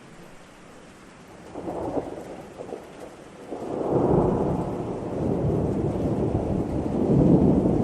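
Thunder over steady rain: a soft hiss of rain, a brief crackle about a second and a half in, then a low rolling rumble that builds from about three and a half seconds in and stays louder than the rain.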